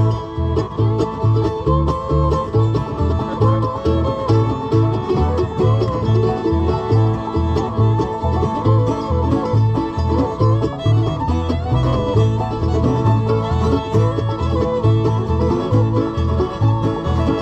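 Acoustic bluegrass string band playing a tune: banjo picking with guitar and fiddle over steady bass notes about twice a second.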